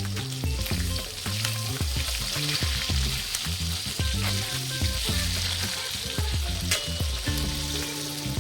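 Chicken frying in hot oil, with a steady sizzle and scattered clicks and scrapes as it is stirred in the pan. A low, rhythmic bass line of background music runs underneath.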